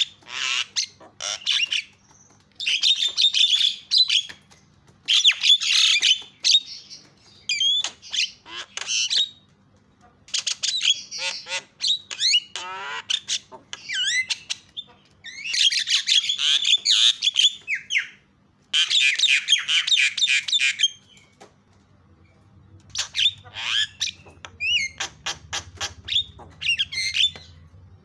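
Javan myna (jalak kebo) calling: bursts of harsh, rapid chattering squawks mixed with whistled gliding notes, each burst a second or two long with short pauses between.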